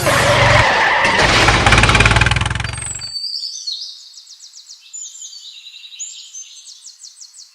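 A vehicle engine with a low rumble and loud noise runs for about three seconds, then cuts off abruptly. Faint, high bird chirps follow.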